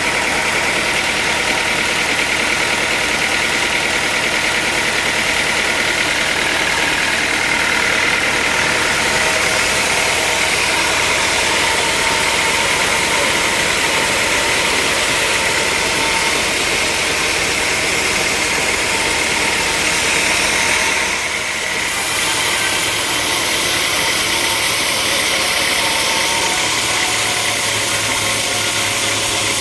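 Sawmill machinery running steadily with a continuous engine-like drone. The sound dips briefly and changes character abruptly about two-thirds of the way through.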